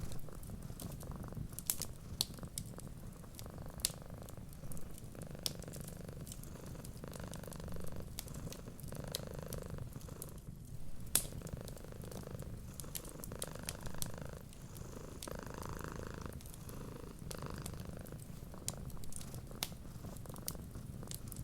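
Domestic cat purring in a steady low rumble, with scattered sharp pops and crackles from a wood fire.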